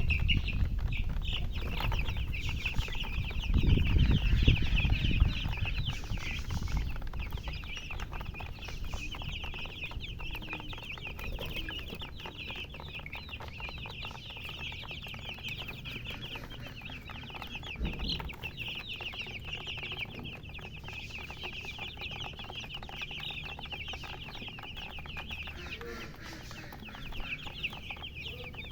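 Many baby chicks peeping together, a constant stream of overlapping high-pitched cheeps. A louder low rumble comes for a couple of seconds about four seconds in.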